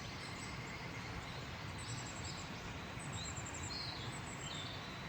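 Outdoor background ambience: a steady hiss with short, high bird chirps repeating about once a second through the second half.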